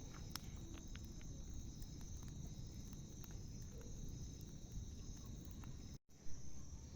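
Crickets trilling steadily, with a few faint scattered crackles. The sound drops out for a moment about six seconds in.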